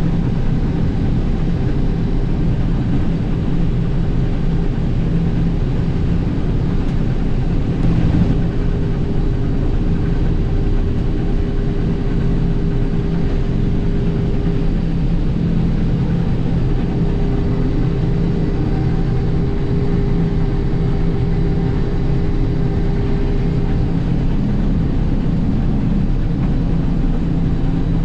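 International Harvester 1440 combine running steadily while harvesting soybeans: a constant engine and machinery drone with a steady hum, and a brief knock about eight seconds in.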